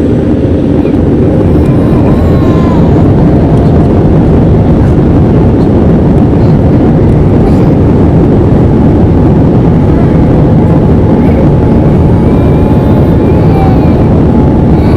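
Boeing 787-9 jet engines at take-off power, a loud, steady rumbling roar that builds over the first couple of seconds and then holds.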